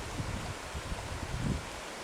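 Steady rush of a waterfall, with wind buffeting the microphone in low, uneven gusts, the strongest about one and a half seconds in.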